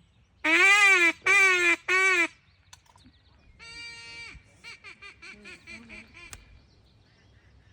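A hand-blown duck call gives three loud, drawn-out quacks, then a single flatter note and a quick run of about ten short quacks.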